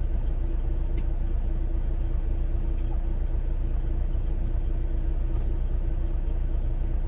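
Steady low rumble and hum of a semi truck's idling engine heard inside the sleeper cab, with a few faint clicks.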